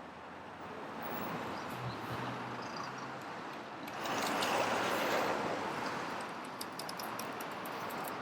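City street traffic: a vehicle passes, swelling loudest about four seconds in, over a steady noise haze. A run of quick, sharp clicks comes near the end.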